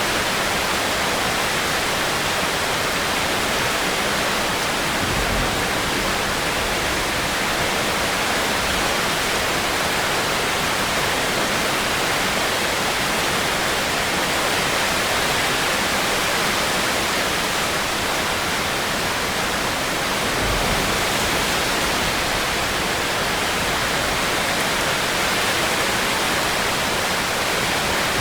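Steady, even rainfall hiss of a heavy rainstorm, with no separate drops or patter standing out. Two brief, faint low rumbles come in about five seconds in and again about twenty seconds in.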